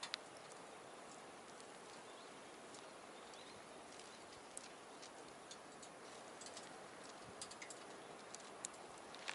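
Small wood fire crackling in a box stove: scattered sharp pops and ticks, a few in quick clusters near the end, over a faint steady hiss.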